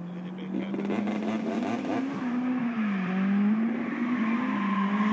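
A drift car's engine revving, its pitch wavering up and down and getting louder as the car approaches.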